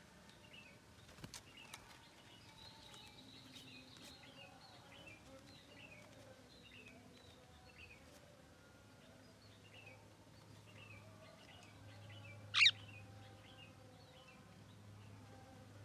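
Javan myna calling: a run of faint, repeated short chirps, with one loud, sharp call about twelve and a half seconds in.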